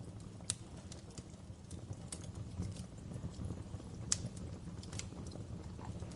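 Wood fire crackling in a fireplace: irregular sharp pops and snaps, the loudest about four seconds in, over a low steady rumble.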